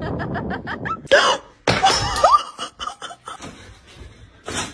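Laughter in quick even pulses, then a sudden loud noise about a second in, followed by short rising cries.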